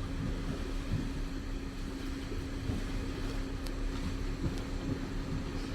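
A car engine idling, heard from inside the cabin as a steady low hum.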